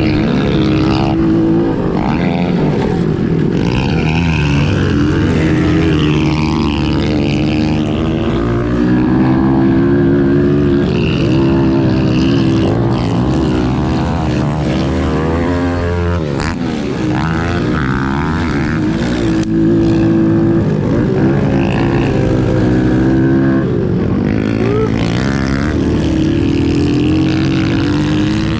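Several pit bike engines revving hard and easing off as the bikes ride a dirt track, their pitches rising and falling over one another.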